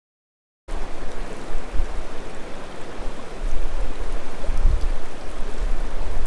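A moment of dead silence, then steady rushing of a flowing creek with wind rumbling on the microphone.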